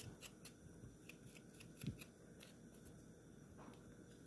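Faint, quick scraping strokes of fresh ginger root being peeled, about three or four a second, with a light knock about two seconds in.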